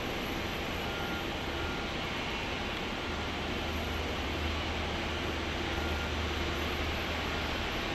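Jet engines of a taxiing Boeing 777-200ER running at low thrust: a steady rushing noise with a low hum underneath, growing slightly louder near the end.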